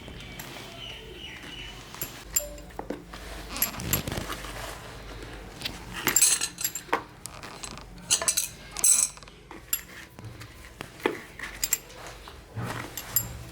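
Small metal hand tools clinking and tapping at irregular intervals, with a busier cluster of sharp knocks a little past the middle.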